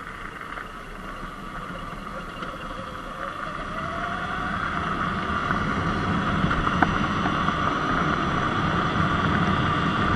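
Surron X Light Bee electric dirt bike under hard acceleration uphill in sport mode: the electric motor's whine rises in pitch a few seconds in, over rushing wind and tyre noise that grow steadily louder.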